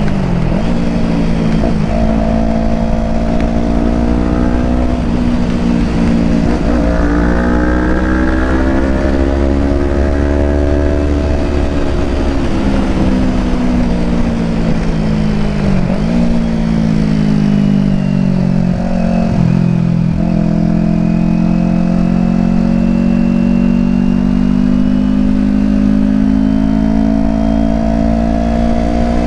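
Kawasaki Ninja 250 parallel-twin engine accelerating under load, its pitch climbing and then dropping sharply several times as the quickshifter snaps through upshifts, with a slower fall and rise in pitch in the middle.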